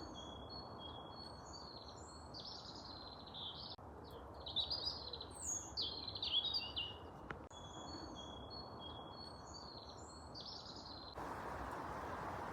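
Small songbirds singing and chirping over a faint steady background hiss, with a louder flurry of quick chirps in the middle.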